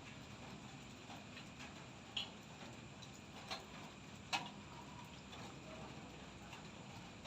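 Light drizzle as a faint steady hiss, with scattered raindrops ticking sharply on a hard surface; three louder drips come about two, three and a half, and four and a half seconds in.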